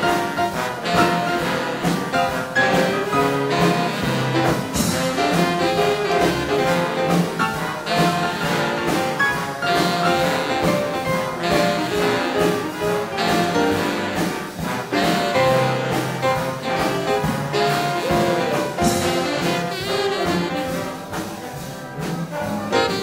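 Big band swing jazz played live, with trumpets, trombones and saxophones over a steady beat.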